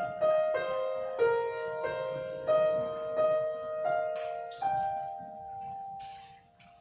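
Piano playing a slow melody, a new note struck about every two-thirds of a second, then a last note held and left to fade away.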